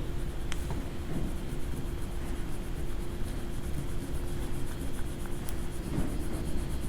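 A coloring tool scratching on paper in quick repeated strokes, over a steady hum.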